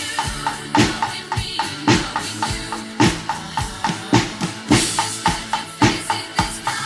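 A percussion ensemble playing music over a drum-kit beat: bass drum and snare accents about once a second, with lighter pitched tapping several times a second in between.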